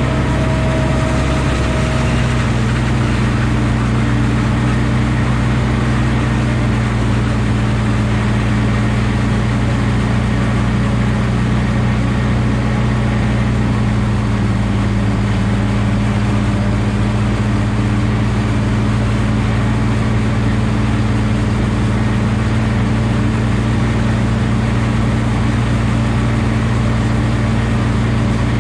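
Valtra T234 Direct tractor's six-cylinder diesel engine running at a steady speed, with a faint higher whine that fades about two seconds in.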